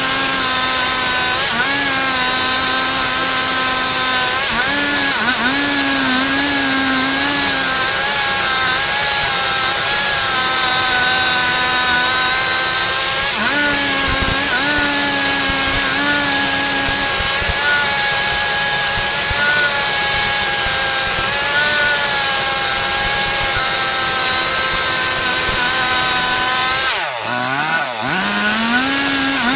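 Stihl MS 382 two-stroke chainsaw running at high revs, ripping a log into boards, its pitch wavering as it works under load. Near the end the revs drop briefly, then pick up again.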